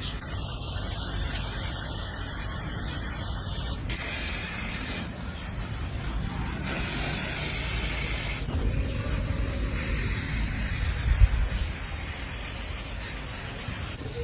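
Spraying hiss in two long bursts: one of about three and a half seconds, then a louder one of about two seconds midway, with a sharp knock about eleven seconds in.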